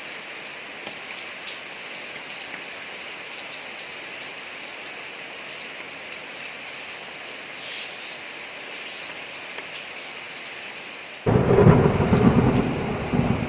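Steady rain falling on a street, an even hiss. About eleven seconds in, a loud thunderclap breaks in suddenly and rumbles on, slowly fading.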